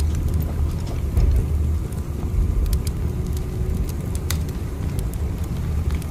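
Steady low rumble of a moving train heard from inside the carriage, with scattered light clicks and ticks over it.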